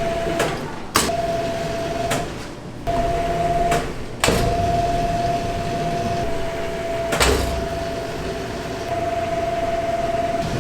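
An electric bakery machine motor running with a steady whine. It cuts out briefly several times, with a sharp click each time it stops or restarts.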